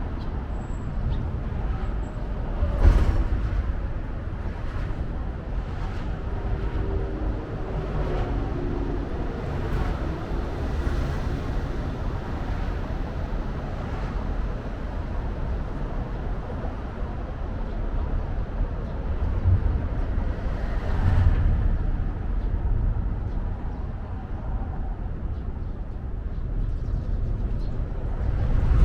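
Urban outdoor ambience dominated by a steady low rumble of road traffic, briefly louder about three seconds in and again around twenty-one seconds.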